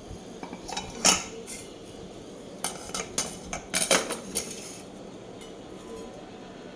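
Cutlery clinking and scraping against a plate in sharp knocks: one loud clink about a second in, then a quick run of clinks between about two and a half and four and a half seconds in.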